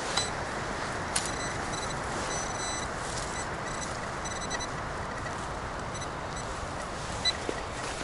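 Steady noise of traffic on a nearby road blended with wind, with short high-pitched chirping tones coming and going over it and a faint click or two.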